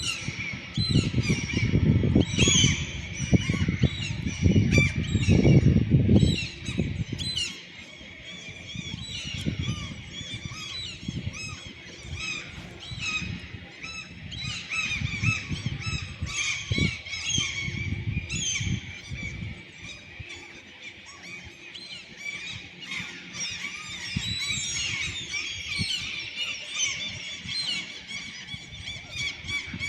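A flock of gulls calling overhead, many short high squealing calls overlapping. A loud low rumble runs under them for about the first seven seconds, then fades to weaker spells.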